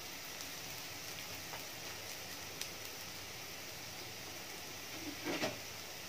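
Sliced shallots and garlic sizzling in a little hot oil in a wok, a steady hiss with a few faint ticks as they fry toward light golden. A brief louder sound comes near the end.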